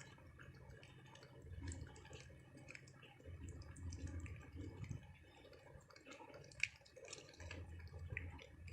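Cats eating a treat: faint wet licking and smacking with small scattered clicks.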